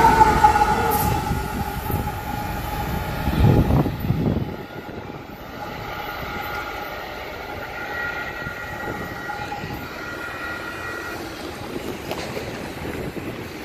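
Freight train's trailing GE ES44AC diesel locomotive and cars passing close by: a loud rumble of wheels on rail with steady high squealing tones. The rumble falls away sharply about four seconds in, leaving a quieter hum with faint steady high tones for several seconds.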